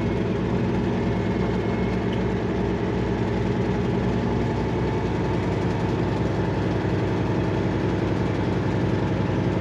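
Semi truck's diesel engine running steadily at low revs, with an even low hum and no revving.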